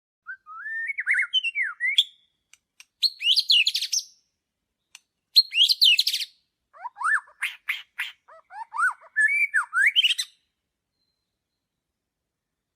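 A songbird singing several short phrases of slurred whistles and buzzy trills, separated by brief pauses, stopping about ten seconds in. There is no background noise between phrases.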